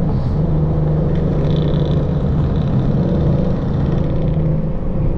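Lexus RC F's tuned, full-bolt-on 5.0-litre V8 running steadily at cruising revs, its exhaust holding an even drone with only slight changes in pitch.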